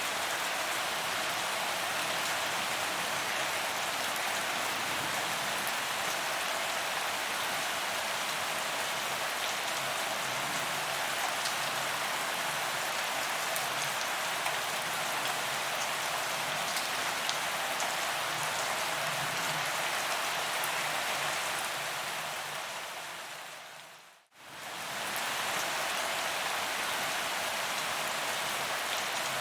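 Steady rain falling on a paved promenade, a dense even patter of drops on the pavement. About 24 seconds in, the sound fades out almost to silence and quickly fades back in, as at an edit join.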